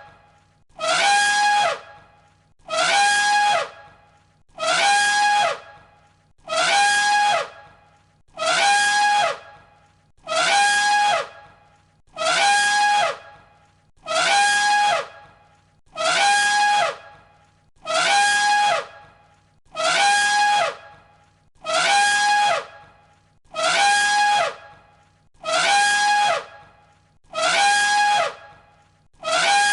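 Elephant trumpeting: the same short trumpet call, about a second long, repeated on a loop roughly every two seconds, about fifteen times over.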